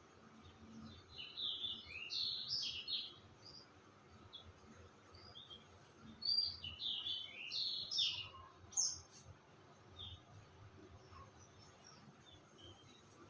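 A songbird singing two short phrases of rapid, high chirping notes, one starting about a second in and a louder one around six seconds in, with a few scattered single chirps between and after.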